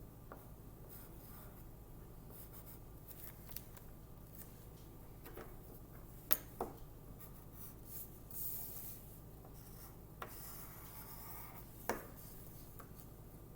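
Faint, intermittent scratching of a drawing tool on paper: short strokes with a few sharp taps, and longer stretches of scratching past the middle.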